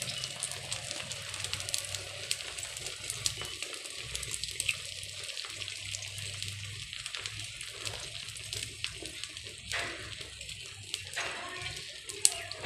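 An egg omelette sizzling in a pan on a gas stove: a steady hiss full of small crackles, with a low hum underneath. A metal spoon scrapes and taps in the pan a few times near the end.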